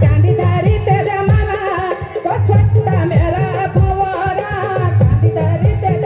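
Garhwali folk music: regular drum strokes under a wavering, ornamented melody line.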